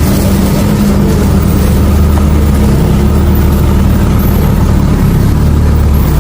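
Vehicle engine running steadily close by, a deep, even drone that gets a little fuller about a second and a half in.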